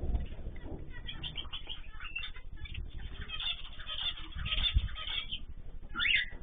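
Small cage birds chirping in short repeated calls, with wings fluttering and a couple of low thumps.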